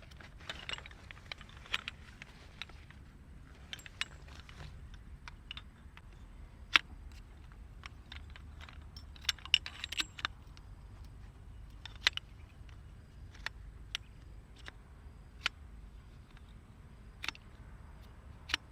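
Irregular light clicks and clinks of small hard objects knocking together, some in quick clusters, over a faint low rumble.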